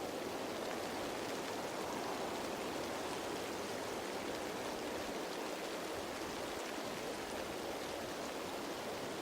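Steady rain falling on leaves, a dense, even hiss of many drops with no single drop standing out.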